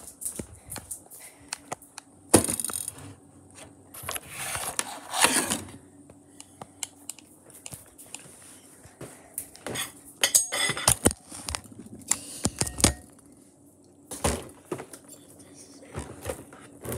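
Small objects being handled by hand: scattered clicks and taps, with several short bursts of rustling or crinkling.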